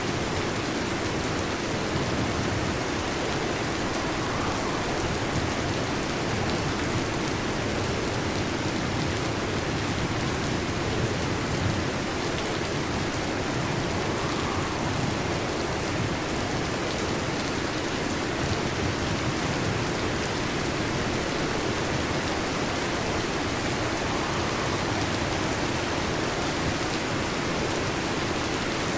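Heavy rain falling steadily on a metal roof, an even, unbroken hiss of drops with no thunder.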